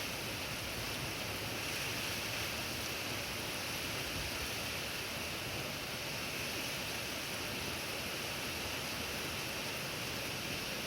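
Typhoon wind and heavy rain: a steady, unbroken rush of noise that holds at the same level throughout.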